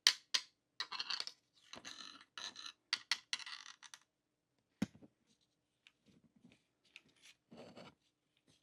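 Small die-cast and plastic model-car parts being handled: a quick run of sharp clicks and scrapes, a single duller knock about five seconds in, then fainter scratching.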